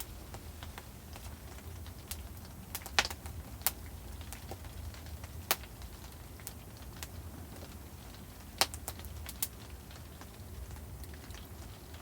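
Wood fire crackling, with irregular small snaps and a few sharp, louder pops, over a steady low rumble.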